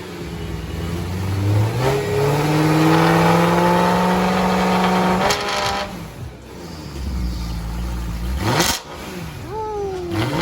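BMW E93 M3's S65 V8, with two catalytic converters cut out and the muffler still fitted, being revved. The pitch climbs and is held high for about three seconds, then drops off suddenly. A shorter blip falls away near the end.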